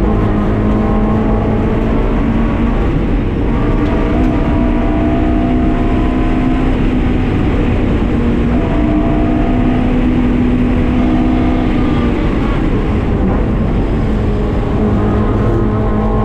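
Honda K24 four-cylinder engine in a swapped Mazda MX-5 Miata running hard, heard from the car, its note holding steady for a few seconds at a time with short breaks between.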